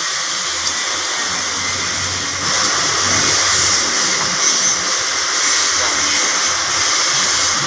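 Steady rushing, hissing noise like moving air, which gets louder about two and a half seconds in and then holds steady.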